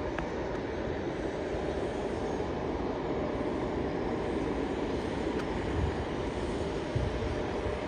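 Steady rumble of jet airliner engines, with a faint steady tone running through it.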